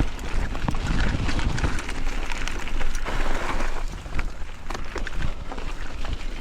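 Mountain bike rolling over a rough trail: tyre noise with frequent clicks and rattles from the bike over bumps, and a steady low rumble of wind on the microphone.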